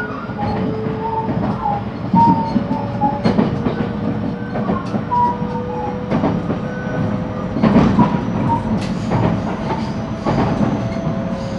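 Interior running sound of a JR West 223-series electric train: the inverter and traction-motor whine rises slowly in pitch as the train gathers speed, over a steady rumble. Rail-joint clacks and wheel knocks come every second or so.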